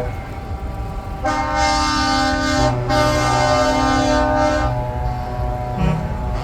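Truck air horn blown in two long blasts, a short break between them, starting about a second in and stopping near five seconds, over the low rumble of a truck's diesel engine passing.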